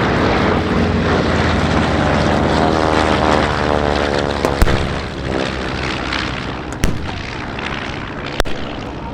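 A propeller warbird flies low past, its engine note dropping in pitch as it goes by. Three sharp bangs go off along the way, about a second and a half to two seconds apart: simulated-attack pyrotechnics.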